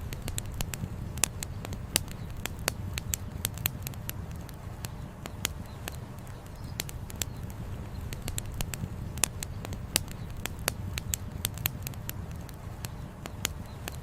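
Wood fire crackling, with frequent irregular sharp pops and snaps, over a steady low rush of flowing river water.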